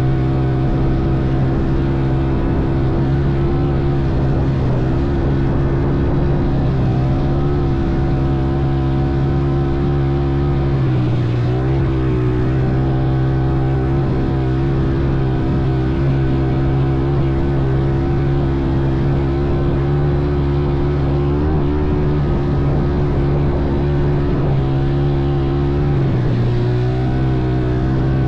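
Motorbike engine running at a steady pace under way, with brief shifts in pitch about eleven seconds in and again near the end.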